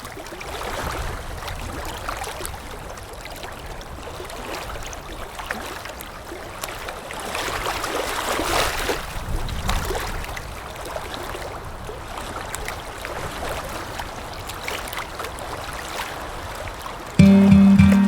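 Moving water rushing and splashing over a low rumble, swelling louder about halfway through. Near the end, music with a steady beat comes in.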